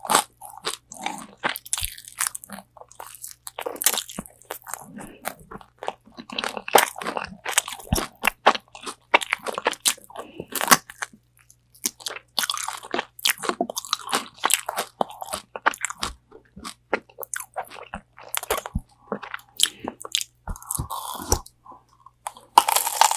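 Close-miked crunching and chewing of crispy spicy Korean fried chicken wings: irregular sharp crackles of the fried coating breaking between the teeth, with short pauses between bites.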